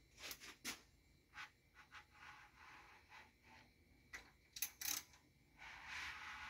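Faint scattered clicks and taps with stretches of soft rubbing, from engine parts being handled during block assembly.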